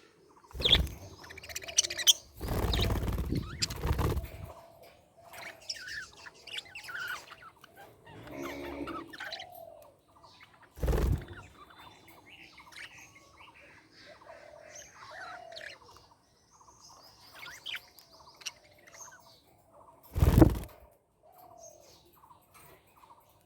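Budgerigars chirping and warbling in many short, high notes. The chirping is broken by a few loud bursts of noise: a long one of about two seconds near the start, and brief ones near the middle and near the end.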